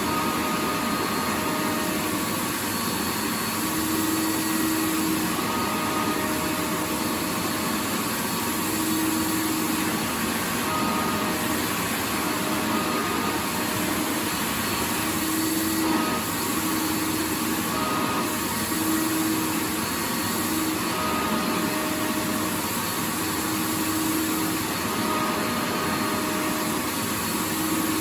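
Vacuum cleaner running steadily: an even rushing hiss of air with a faint motor hum that wavers in and out every second or two.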